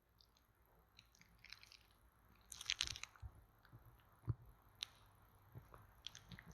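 Close-miked ASMR clicks and crackles from a bamboo stick tapping and rubbing near the microphone. It is faint and scattered, with a louder crackling rustle about two and a half seconds in and two sharp taps a little past four seconds.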